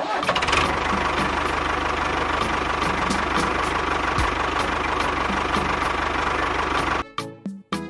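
A small engine running steadily under background music with a regular beat. The engine sound cuts off suddenly about seven seconds in, leaving only the music.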